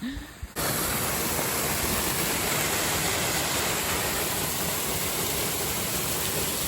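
Waterfall: a steady, even rush of falling water close to the microphone, starting abruptly about half a second in.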